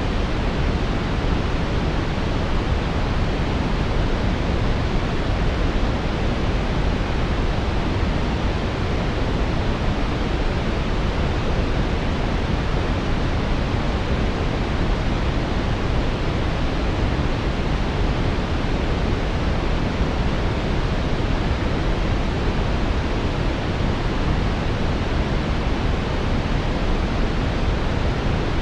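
Steady brown noise: an even, unchanging rushing hiss weighted toward the bass and thinning out in the treble.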